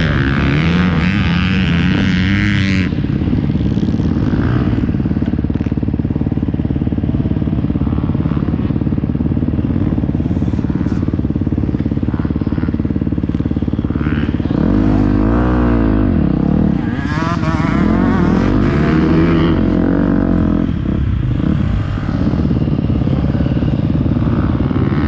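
Motocross bike engine running under load, heard from a GoPro. The pitch rises and falls repeatedly as the throttle is opened and closed, most strongly around the middle.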